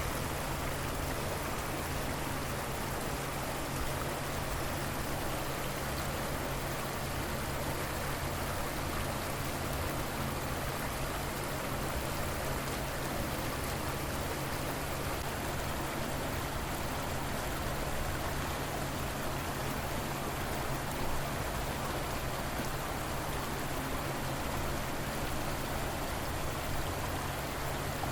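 River water flowing steadily: an even, unbroken rush with no separate splashes or drops standing out.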